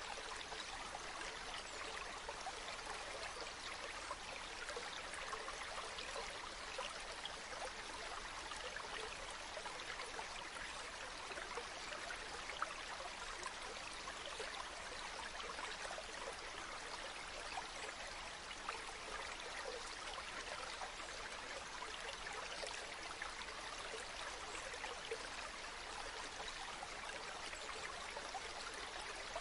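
Running water flowing steadily, a constant even rush with fine splashing and no pauses.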